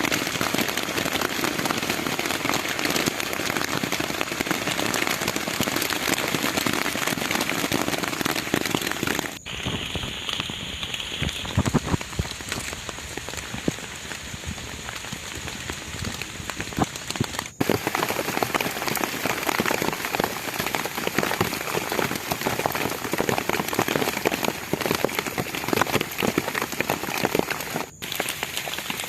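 Heavy rain falling, a dense, steady patter of drops. It cuts off abruptly twice. In the quieter stretch between the cuts the individual drops stand out more.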